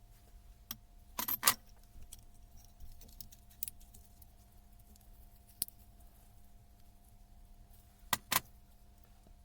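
Small metal parts and tools clinking and knocking as they are handled and set down on a workbench while a hammer drill is being taken apart. The clinks come singly and in pairs, the loudest pair about a second and a half in and another near the end, over a low steady hum.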